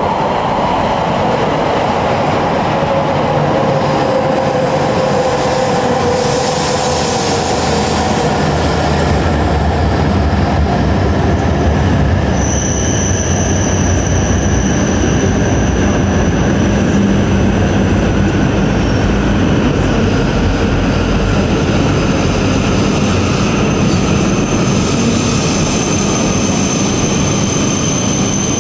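Coupled E6 and E5 series Shinkansen train at the platform. Its motor whine falls in pitch over the first several seconds as it slows. From about twelve seconds in a steady high whine sits over continuous train running noise.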